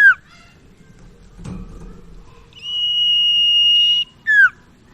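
Common iora (sirtu, cipoh) singing: a long, steady high whistle lasting about a second and a half, followed by a short note that slurs sharply downward, with another such downward note right at the start.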